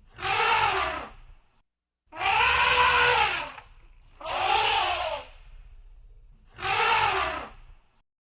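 Elephant trumpeting: four calls about two seconds apart, each rising and then falling in pitch.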